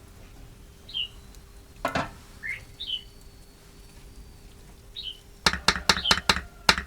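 Small bird chirping in short, quick calls several times. There is a knock about two seconds in, then a quick run of about seven sharp knocks or taps near the end, the loudest sounds here.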